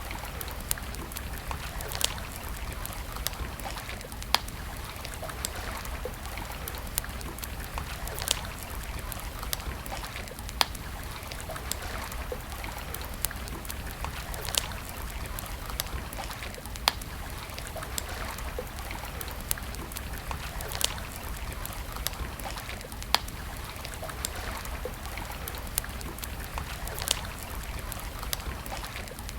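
Wood campfire crackling: many sharp pops and snaps scattered through it, over a steady rushing hiss.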